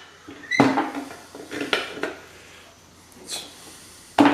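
Small metal parts of an electric pump motor clinking and knocking against each other and a work surface as they are handled. There are a few separate sharp knocks with short ringing, the loudest near the end.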